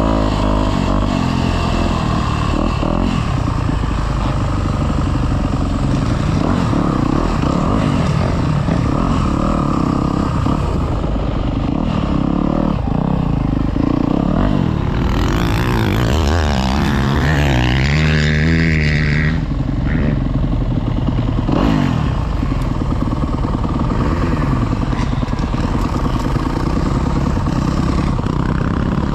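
Yamaha YZ250F's single-cylinder four-stroke engine being ridden hard round a motocross track, its pitch rising and falling over and over as the throttle is opened and shut through the turns and jumps.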